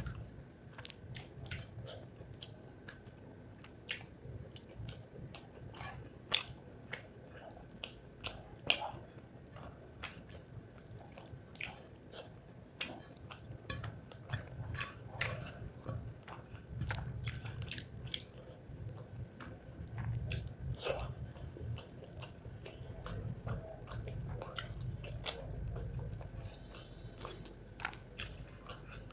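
Close-miked chewing and biting of rice with spicy chicken liver, with many short sharp mouth clicks throughout and stretches of low rumbling chewing in the second half.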